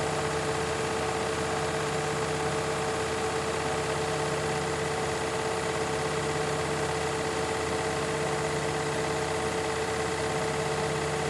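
Beko and Candy washing machines spinning together: a steady motor hum and whine that holds one pitch without change.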